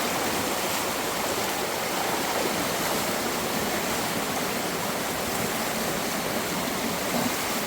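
Extremely strong, fast river rushing steadily.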